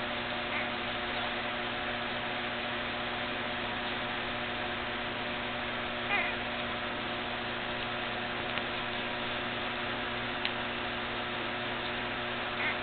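Steady hum and hiss, with a few brief high squeaks from week-old dachshund puppies nursing: one near the start, a louder one about halfway through, and one near the end.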